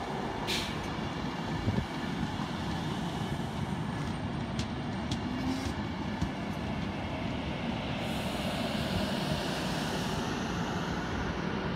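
Virgin Class 390 Pendolino electric train running past along the platform: a steady rumble of wheels on rail, with a few short clicks.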